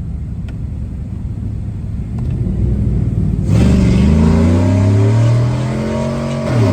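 V8 engine with long-tube headers under load: a low rumble at light throttle, then about three and a half seconds in it opens up loudly and the revs climb steadily for about three seconds before dropping sharply near the end.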